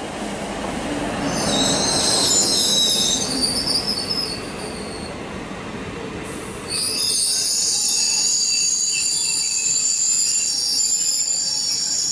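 A diesel-electric multiple-unit (DEMU) train passing close by. The power car's rumble swells and eases off over the first few seconds, with high-pitched wheel squeal. About seven seconds in, the squeal comes in suddenly louder as the coaches pass, and it holds steady.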